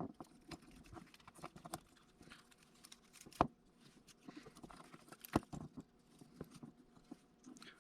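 Faint, scattered small clicks and taps of small drone gimbal parts being handled and set down on a work surface, with two louder knocks about three and a half and five and a half seconds in.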